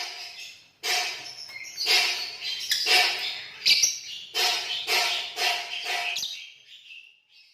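Green lovebirds singing: long, rapid, shrill chattering trills in bursts with brief breaks, dying away shortly before the end.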